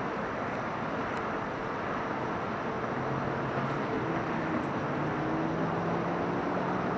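Steady rumble of a passing freight train, with a diesel locomotive's engine hum (the train's distributed power unit) coming in about three seconds in.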